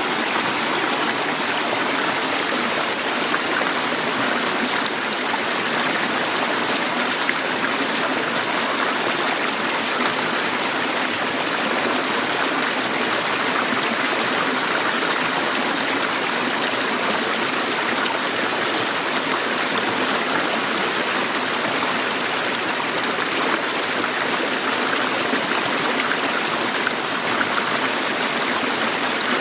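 River water flowing and babbling over rocks, a steady rushing with fine splashing detail.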